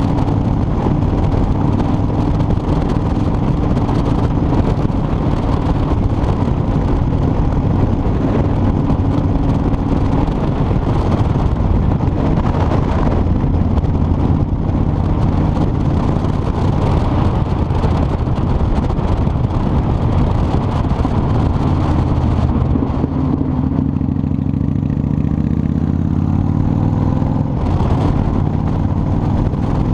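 Motorcycle engine running while riding, mixed with a steady rush of wind and road noise. About three-quarters of the way through, the engine note drops and then climbs again.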